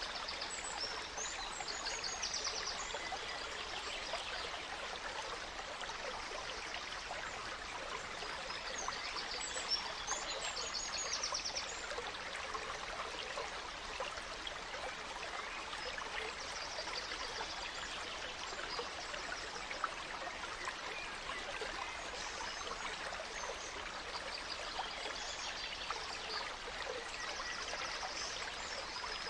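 Gentle forest stream babbling steadily, with songbirds singing high, rapid trills that come and go every several seconds.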